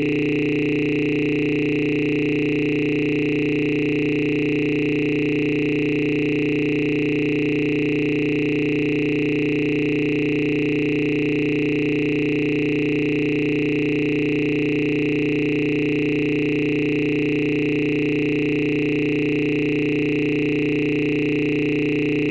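A steady electronic drone of several held tones, low and high together, unchanging in pitch and level.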